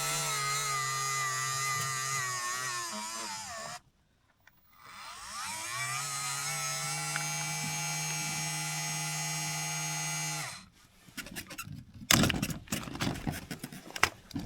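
Navac electric flaring tool's motor running with a whine that sags in pitch as it loads up and stops about four seconds in. It starts again a second later, runs steadily for about five seconds, and stops. Clicks and knocks follow as the tool is handled.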